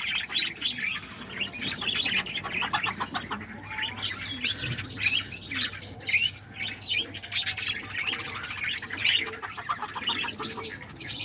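A flock of parakeets chirping and chattering, many short calls overlapping without a break.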